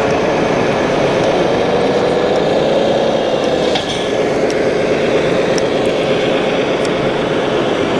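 1/14-scale RC model trucks and machines running, a steady mechanical hum with a whine that shifts pitch about four seconds in and a few light ticks.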